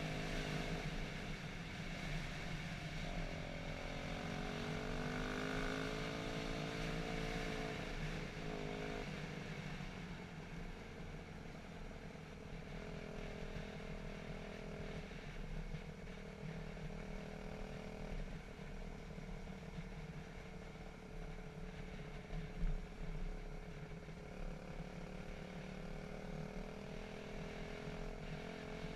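Dirt bike engine running, its revs rising and falling with the throttle. A brief knock sounds about three-quarters of the way through.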